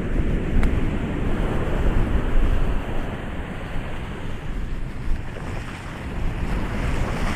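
Ocean surf: a continuous rush of waves breaking on a shore, with a deep rumble from wind buffeting the microphone. A wave swells up and breaks near the end.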